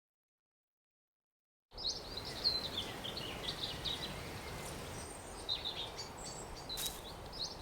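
Small birds chirping and twittering in quick, busy calls over a steady outdoor hiss, starting about two seconds in after silence.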